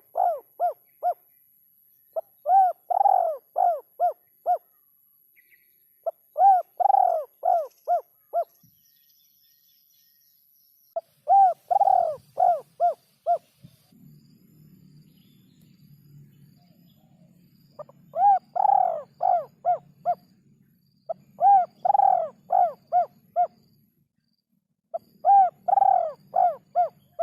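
Derkuku (spotted dove) cooing in repeated phrases of four or five coos each, the first coo longest and the rest shorter and quicker, about a second and a half per phrase, with a pause of a few seconds between phrases. A faint low hum runs underneath through the second half.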